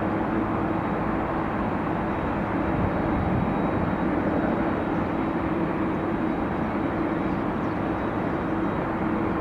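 Steady rushing jet engine noise from a Boeing 737-8 MAX's CFM LEAP-1B engines after takeoff, with a constant low hum underneath.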